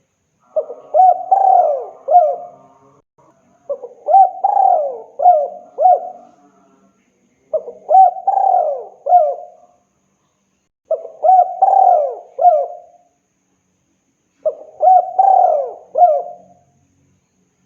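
Male spotted dove (tekukur) cooing: five repeated phrases of several notes each, about one every three and a half seconds, an advertising call to a female.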